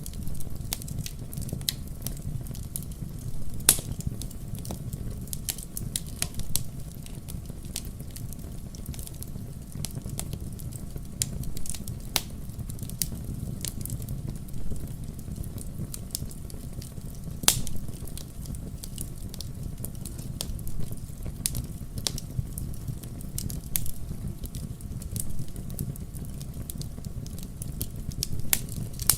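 Wood fire burning in a fireplace: a steady low rumble of the flames with irregular sharp crackles and pops, two louder snaps about four seconds in and past the middle.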